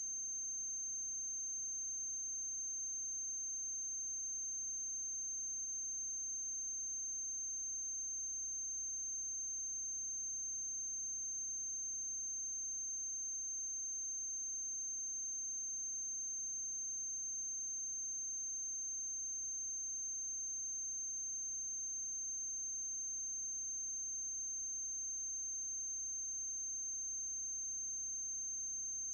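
A steady high-pitched tone with a faint low hum beneath, unchanging throughout. The 1906 film has no sound of its own, so this is electrical noise from the transfer.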